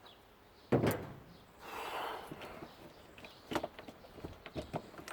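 A sharp metal clunk about a second in, then a brief rushing noise and scattered light clicks and knocks: tools and metal parts being handled while a washing machine motor is taken apart.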